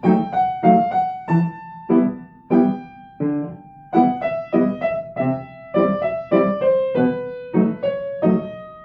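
Piano playing a slow passage in three-time: a steady run of struck bass notes and chords, about one every half second or so, each ringing and fading, under a held melody line.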